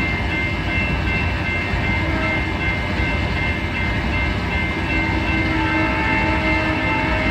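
Freight train running with a deep, continuous rumble and several steady high tones held throughout; more, lower tones join about five and a half seconds in.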